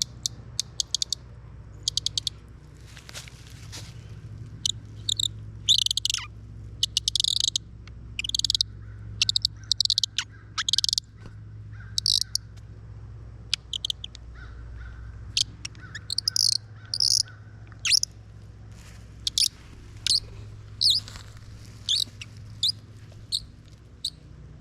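Audubon bird call, its metal key twisted in the wooden barrel, squeaking out a long series of high, bird-like chirps, some singly and some in quick runs of several.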